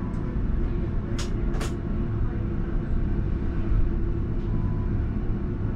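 Alstom Citadis tram running, heard from the driver's cab: a steady low rumble of the motors and wheels on the rails, with faint steady tones over it. Two short hisses come a little over a second in.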